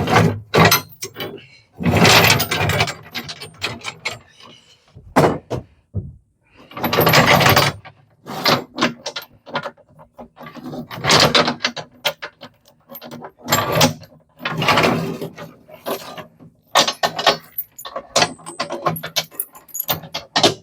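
Metal hardware clanking and rattling in irregular bursts, as hooks and rigging are handled.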